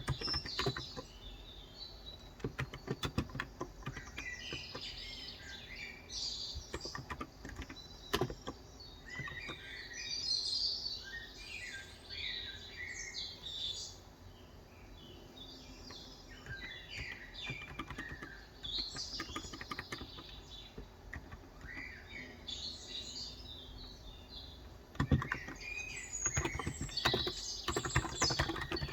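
Typing on a Cox Endeavor electro-capacitive (contactless) tenkeyless keyboard with 35 g switches, in bursts of keystrokes that are heaviest near the start and again in the last few seconds. Birds chirp on and off throughout.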